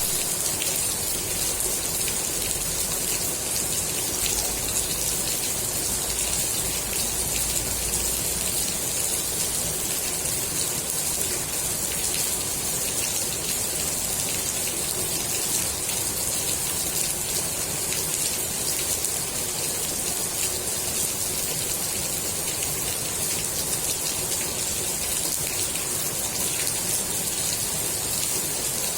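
Steady rain falling onto the water of a swimming pool, an even hiss of many small drops splashing with no let-up.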